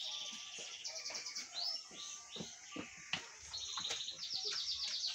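A small bird chirping in fast, high trills, several runs of rapid repeated notes, with a few soft thuds in between about halfway through.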